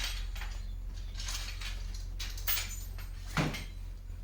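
A series of short rattles and clacks from a parasol's ribs and hub being handled as the frame is unstrapped and pushed open, with a louder knock about three and a half seconds in. A steady low hum runs underneath.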